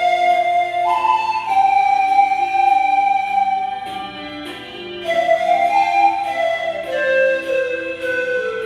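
Pan flutes playing a slow melody in long held notes, sliding from one sustained pitch to the next, with lower notes sounding beneath the tune.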